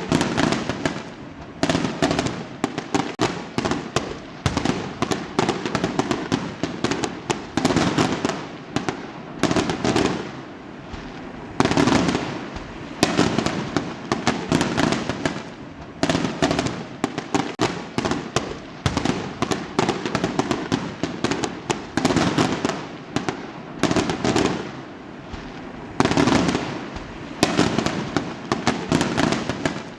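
Fireworks going off in a dense, unbroken barrage of sharp bangs and crackles, several a second, with louder volleys every second or two.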